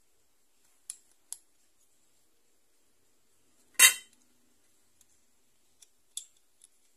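Light clicks of small metal tools or parts being handled on a workbench, with one much louder clatter about four seconds in.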